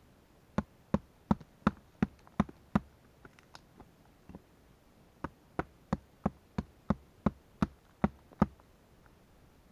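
A Becker fixed-blade knife chopping into the resinous heartwood of an old pine stump to cut out ocote: a run of sharp knocks at about three a second, a short pause with a few light taps, then a second run of about ten blows that stops near the end.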